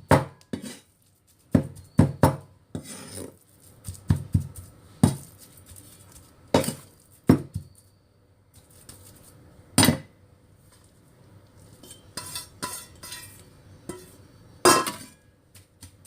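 Cleaver chopping minced pork on a cutting board: irregular sharp knocks, some with a metallic clink, working the meat coarse and sticky.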